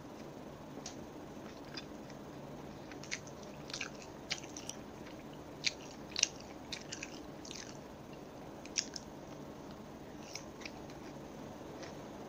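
Close-miked chewing of a crispy breaded chicken nugget: irregular crisp crunches and wet mouth clicks, thickest in the middle and thinning out near the end, over a steady low background noise.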